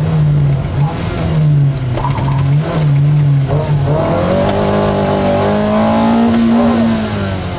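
MG F rally car's four-cylinder engine at full effort, heard from inside the cabin: the revs drop and pick up again several times in the first half with lifts and gear changes, then climb steadily for a couple of seconds and fall away near the end.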